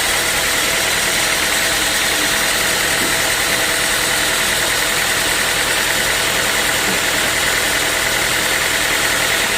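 Sawmill machinery running steadily: a loud, even mechanical noise with a constant whine.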